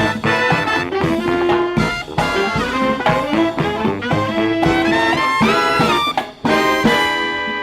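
Live brass marching band playing a lively tune, with trumpets and trombones over a steady drum beat; near the end the band holds a long chord.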